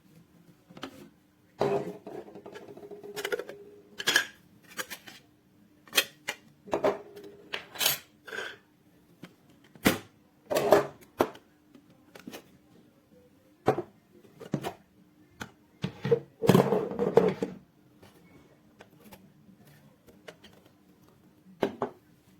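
Irregular handling noises: hard objects knocked, clicked and set down, with a few longer rustling or scraping stretches, over a faint steady hum.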